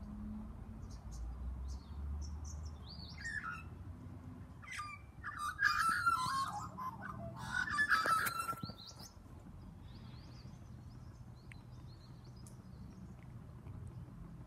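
Birds calling: scattered chirps, then a burst of loud, harsh chattering calls in the middle lasting about three seconds, before it settles back to faint background.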